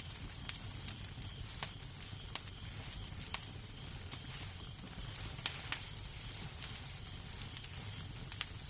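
Wood fire crackling in a fireplace: irregular sharp pops and snaps over a steady low rumble and hiss, with a few louder pops.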